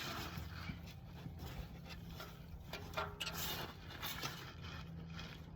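Faint scraping and light clicks of hand tools working a valve adjuster and lock nut, over a steady low hum.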